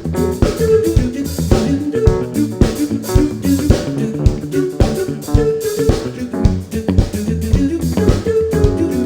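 Live band playing an instrumental groove: drum kit with bass drum and rimshot hits keeping a steady beat under guitar and bass lines.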